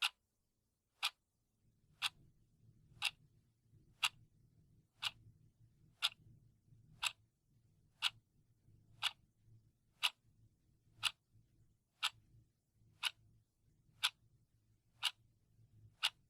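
Clock ticking sound effect, one sharp tick every second, evenly paced like a second hand, with a very faint low hum beneath from about two seconds in.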